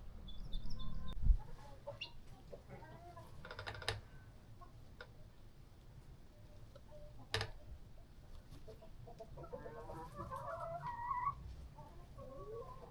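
Chickens clucking on and off, busiest near the end, with a few sharp knocks; a low thump about a second in is the loudest sound.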